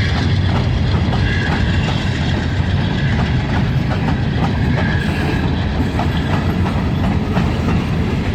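Diesel freight train rolling by, a steady low rumble with wheels clicking over rail joints.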